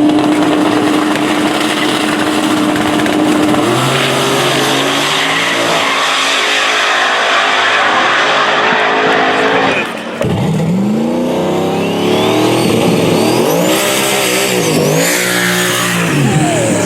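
No-prep drag race car engine held at one steady pitch for several seconds, then launching and accelerating hard through stepped gear changes. After a brief dip about ten seconds in, engine revs rise and fall again, with a high whine gliding upward.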